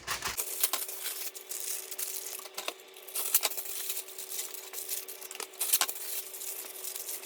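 Aluminium foil crinkling as it is wrapped over a dish, a run of many sharp crackles and light clicks.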